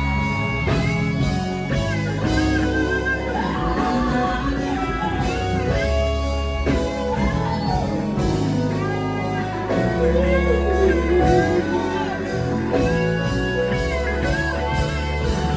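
Gospel band playing an instrumental closing vamp: an electric guitar plays bending, bluesy lead lines over a steady bass and sustained chords.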